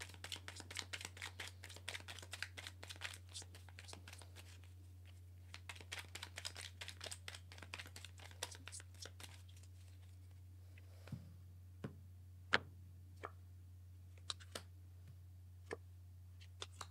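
Tarot cards being handled: a faint, rapid patter of card flicks and rustles for about the first nine seconds, then a few separate light taps. A steady low electrical hum runs underneath.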